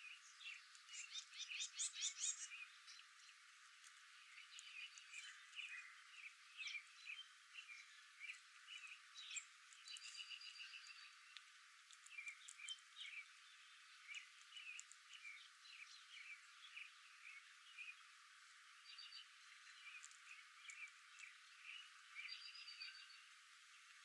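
Faint outdoor chorus of animal calls: many short chirps and trills overlapping, with a louder rapid trill about a second in.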